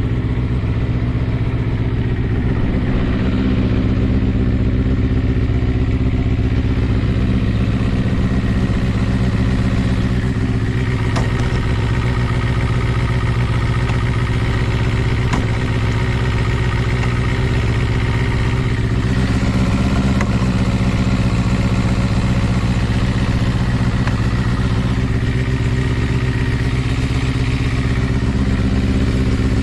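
Kawasaki ZRX400 inline-four motorcycle engine idling steadily through a Moriwaki ZERO titanium full exhaust system.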